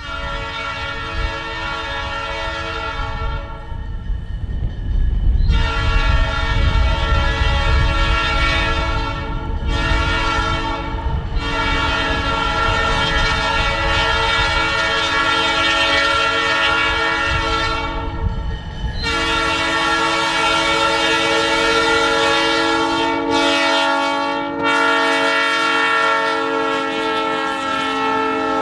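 Diesel locomotive's multi-chime air horn sounding a series of blasts: long, long, short, then a very long held blast, the standard grade-crossing signal. The low rumble of the passing train runs under it.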